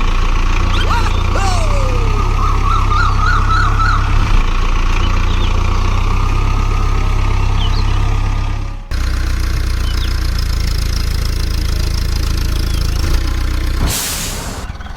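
Mini diesel engine running steadily with a low drone. High warbling chirps sound over it in the first few seconds. The sound breaks off abruptly about nine seconds in and picks up again at once, and a short hiss comes near the end.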